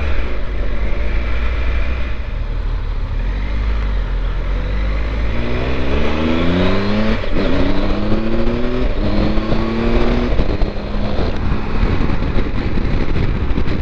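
Triumph Tiger 1200's three-cylinder engine accelerating through the gears: its pitch climbs three times in a row from about a third of the way in, dropping back at each upshift, then levels off. A steady low wind rumble runs underneath.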